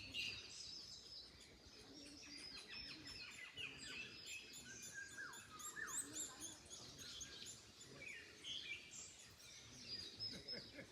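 Several small birds chirping and singing at once, a dense run of short high calls and quick pitch glides with no pause, over a faint background hiss of wind in trees.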